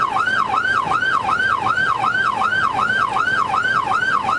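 Police car siren in its fast yelp mode, sweeping quickly up and down about three and a half times a second during a pursuit.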